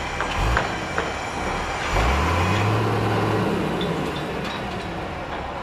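Heavy vehicle traffic with a low engine note that rises about two seconds in and holds briefly before easing off, over a steady bed of urban construction noise, with a couple of knocks in the first second.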